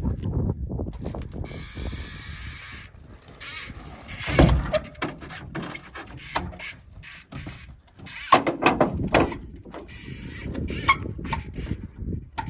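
Bicycle freewheel ratchet clicking, with several sharp knocks as the bike is tapped against the wrecked aircraft. The loudest knock comes about four and a half seconds in, and another cluster follows around eight to nine seconds.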